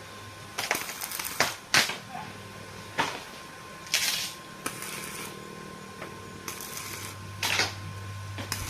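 Metalwork on welded steel railings: irregular sharp metal knocks and clicks, with a few short crackling bursts.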